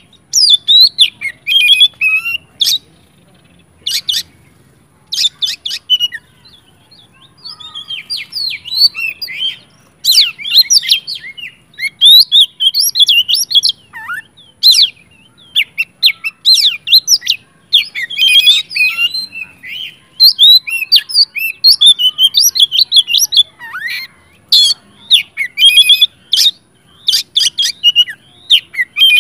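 Oriental magpie-robin (kacer) in full, aggressive song: loud, varied rapid whistles, chirps and sliding notes delivered in bursts separated by brief pauses.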